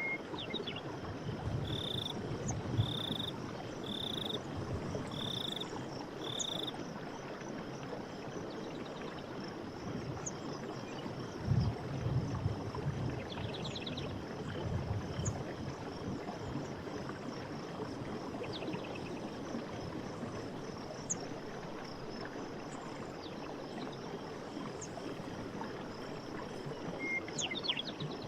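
Night forest ambience: a steady hiss under a high call repeated five times, about once a second, in the first seven seconds, with scattered faint chirps and clicks. A few soft low thumps come around twelve seconds in.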